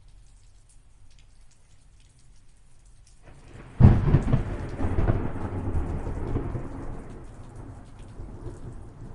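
Light rain pattering. About three seconds in, a thunderclap rises, breaks with a sharp crack, and rolls on, slowly fading.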